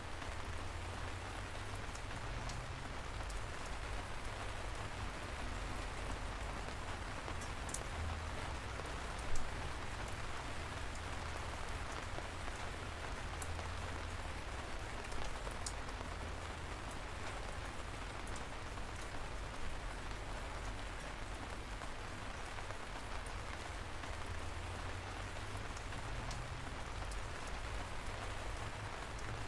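Gentle light rain falling steadily: an even hiss with scattered single drops ticking, over a low rumble. One short, louder knock about nine seconds in.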